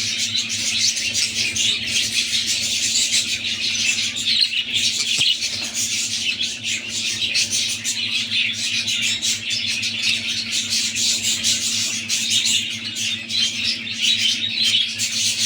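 Budgerigars chattering and squawking without a break, a dense run of fast, high-pitched calls, over a faint steady low hum.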